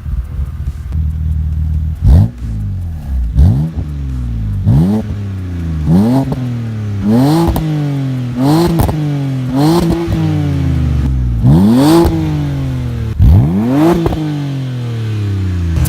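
BMW Z4 E86's stock N52B30 3.0-litre straight-six through a Supersprint Race stainless steel exhaust, idling and then blipped about nine times in quick succession. Each rev climbs sharply and falls back to idle.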